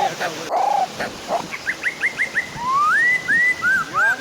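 A dog whining and whimpering in a run of high, short cries that rise and fall in pitch, including one long rising whine near the end.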